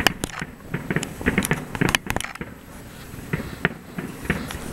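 Aerial fireworks shells bursting: a quick, irregular run of sharp bangs and pops, densest in the first two seconds, then scattered single reports.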